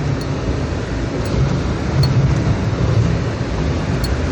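An off-road truck's engine running steadily with a low rumble, under a steady rushing noise.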